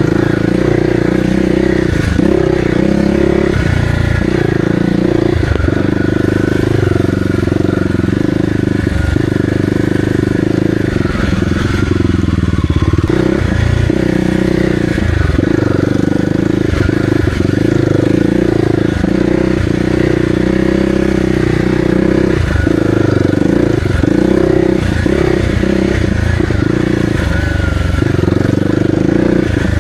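Kawasaki KLX300R's single-cylinder four-stroke engine running steadily as the dirt bike is ridden along a trail, with brief dips in throttle along the way.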